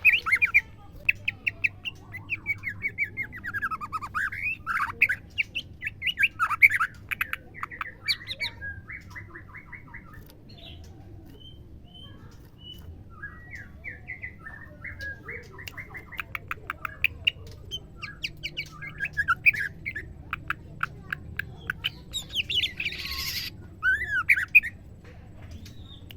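Female white-rumped shama calling: quick runs of sweeping chirps and rattling trills, thinning out for a few seconds in the middle, with a harsh, noisier call near the end.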